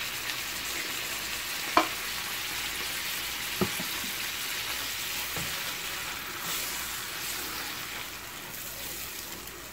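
Chicken wings deep-frying in a pan of oil with a steady sizzle, beside a second pan of garlic-butter and sriracha sauce. Two sharp knocks come about two and three and a half seconds in, and a spoon stirs the sauce near the end.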